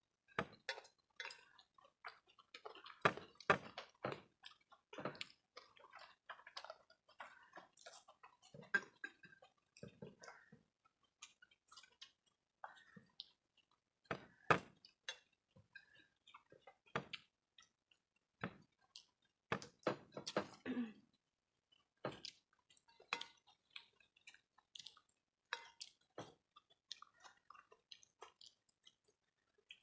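People chewing a meal of rice and curry, with irregular wet mouth clicks and smacks.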